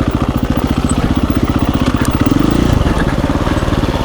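KTM 350 EXC-F's single-cylinder four-stroke engine running at low trail speed, with a short rev a little over two seconds in.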